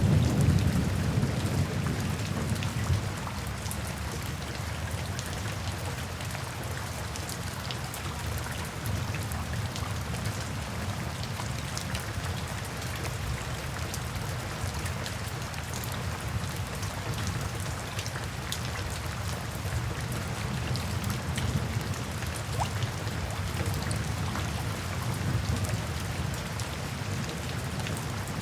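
Steady rain falling, with scattered drops ticking on a surface. A low rumble of thunder dies away over the first few seconds.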